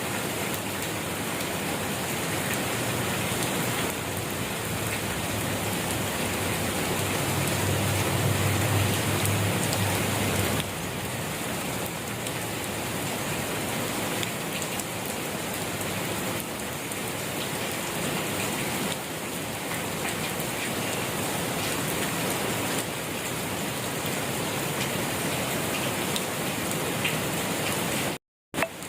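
Steady rain falling, an even hiss of many drops on a surface. A low rumble swells under it about a third of the way in, and the sound cuts out completely for a fraction of a second near the end.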